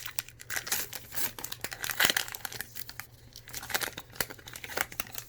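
Wrapper of a Heritage baseball card pack being torn open and crinkled: a run of sharp, irregular crackles and rips.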